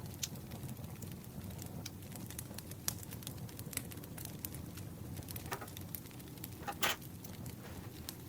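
Campfire crackling, with a steady low rumble and frequent sharp pops. A brief louder rustle, typical of paper being handled, comes about seven seconds in, with a fainter one just before it.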